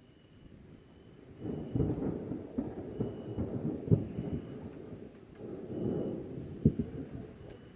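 Thunder rumbling in two rolls with sharp crackling peaks. The first roll builds about a second and a half in, the second swells a little past the middle and peaks in a sharp crack.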